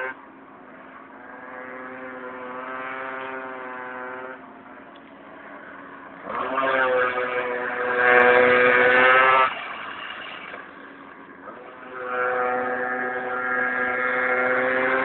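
Small two-stroke minibike engines buzzing at high revs, swelling louder and fading three times as the bikes come past.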